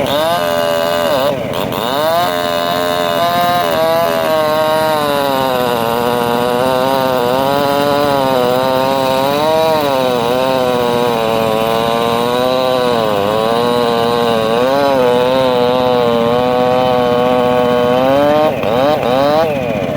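Homemade circular sawmill ripping a mahogany log: a loud, steady machine note whose pitch sags and recovers again and again as the blade takes the load of the cut, with quicker pitch swings near the end.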